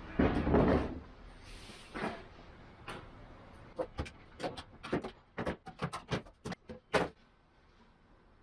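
Workshop handling sounds: a short scraping rustle at the start, then a quick run of about a dozen sharp clicks and knocks over about three seconds, like hand tools or wooden parts being set down and tapped.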